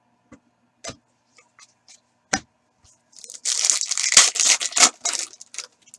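A foil card pack wrapper being torn open, a dense crinkling tear lasting about two seconds past the middle, after a few sharp clicks of cards being handled.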